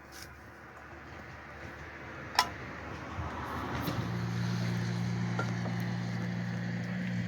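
A motor vehicle's engine grows louder over the first few seconds, then runs at a steady low hum that dips in pitch at the very end. One sharp click comes about two and a half seconds in.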